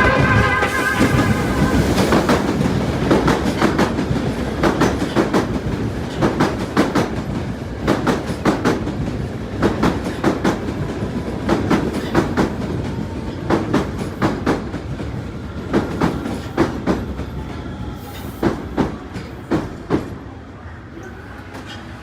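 Kita-Osaka Kyuko 8000 series electric train running past, its wheels clacking over rail joints in quick groups over a steady rumble that gradually fades as the train moves away.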